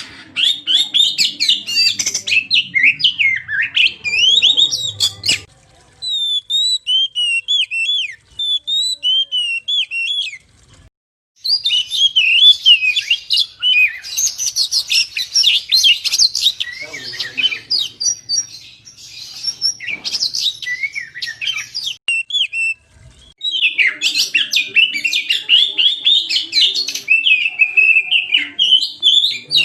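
Oriental magpie-robin (kacer) singing a loud, fast run of varied chirps, trills and whistles, with a few short pauses between bursts.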